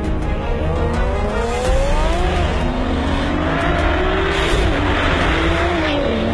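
Nissan GT-R's twin-turbo V6 under hard acceleration: the engine note climbs, drops and climbs again, then falls away near the end, over background music.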